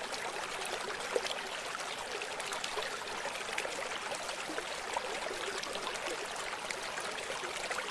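Steady running water with a fine, crackly texture of small splashes, fading in and out.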